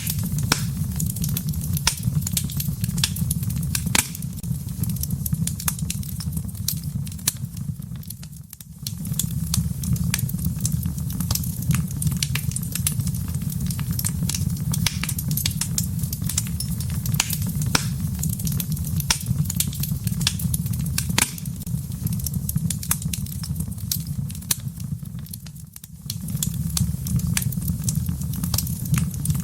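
Wood fire in a fireplace crackling, with frequent sharp pops and snaps over a steady low rumble of the flames. The sound briefly dips in level twice, about 8 seconds in and near the end.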